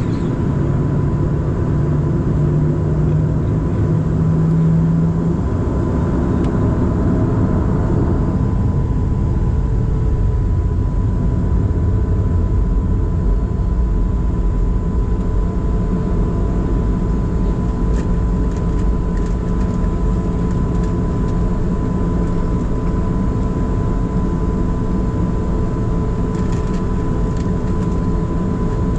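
Boeing 737-700 with its CFM56-7B engines at idle, taxiing into position on the runway before takeoff, heard from inside the cabin: a steady low rumble with a faint steady hum.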